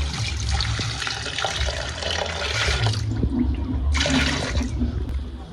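Water being poured and splashing for about three seconds, then a second short pour about a second later.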